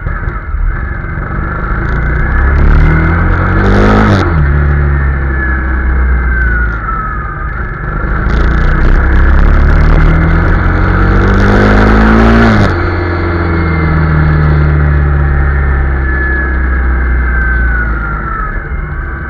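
Honda CRF250 Rally's single-cylinder four-stroke engine under way, twice rising in pitch as it accelerates and then dropping abruptly, about four seconds in and again about twelve and a half seconds in, running steadily between.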